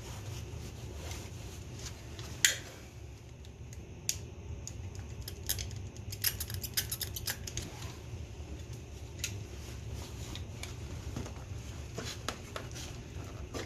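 Scattered sharp clicks and light metallic taps of hand tools and parts being handled while working on an ATV, with a quick run of clicks about six seconds in. A steady low hum runs underneath.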